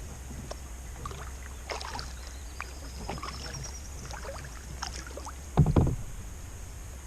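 Kayak paddle strokes in calm water: scattered splashes and drips off the blades. A single loud, low thump comes a little over halfway through.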